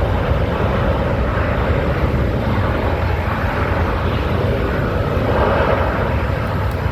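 Jet airliner engines running, a steady loud rumble with a broad rush above it.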